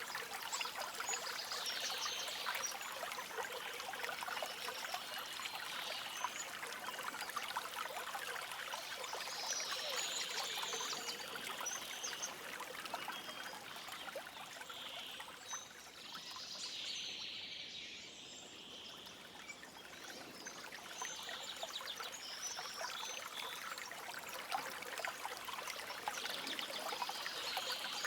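Stream water trickling and splashing steadily, with birds singing in short phrases every few seconds over it. The water grows a little quieter for a few seconds about two-thirds of the way through.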